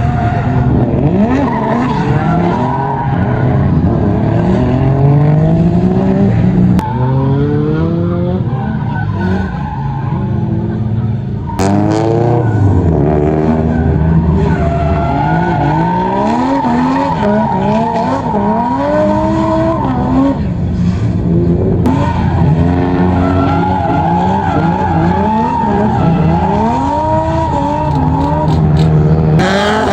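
Drift cars' engines revving hard, rising and falling in pitch as the drivers work the throttle, with tyres squealing and skidding through the slides. Several engines overlap at times, and the sound changes abruptly a few times where clips are joined.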